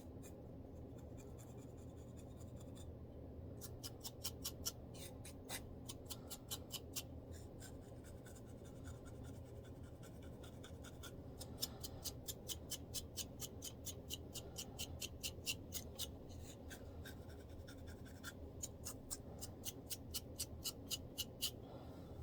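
Quick scratching strokes across a scalp flaking with dandruff, at about four strokes a second, coming in several runs with short pauses between them.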